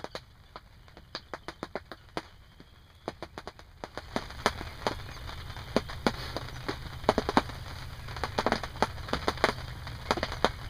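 Rain hitting a fabric hunting ground blind: irregular drop impacts. About four seconds in, they become denser and louder over a steady hiss.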